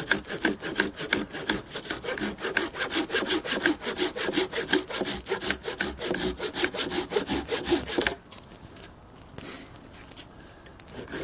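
Hand saw cutting firewood, with fast, even back-and-forth strokes, about four or five a second; the sawing stops about eight seconds in.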